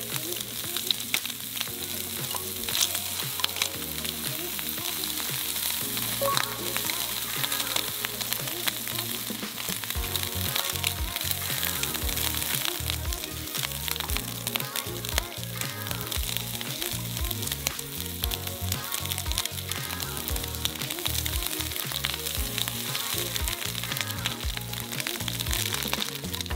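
Food sizzling and crackling steadily as it fries in a hot pan, with background music underneath.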